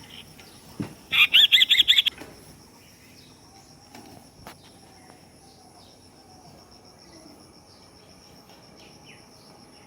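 Sparrow chicks cheeping: a loud, quick run of about eight chirps about a second in, followed by faint, scattered calls.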